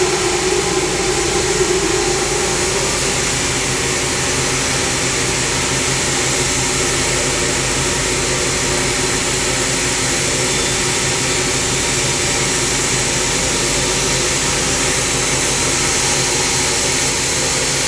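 Wood-Mizer LT70 band sawmill running steadily under load, its blade cutting slowly through a hardwood log. The engine hums evenly throughout, and a midrange whine eases off over the first few seconds.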